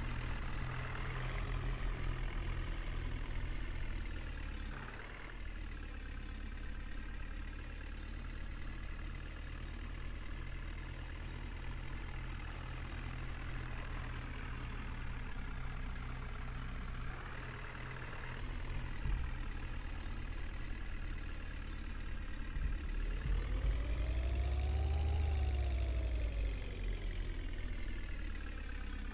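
JCB backhoe loader's diesel engine running steadily as it works. Near the end it revs up and back down over a few seconds, rising and then falling in pitch.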